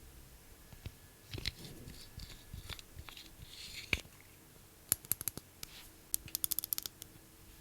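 Makeup items handled by hand at close range: scattered scratchy rubbing and light clicks, then a fast run of sharp taps about two-thirds of the way through.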